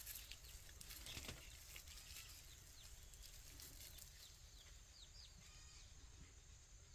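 Faint, scattered high bird chirps over a low steady rumble, with a few soft clicks about a second in.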